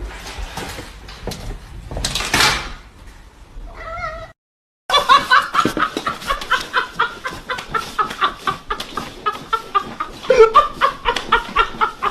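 A noisy swell, then a short pitched animal cry about four seconds in. After a sudden break comes a long run of rapid, repeated short animal calls.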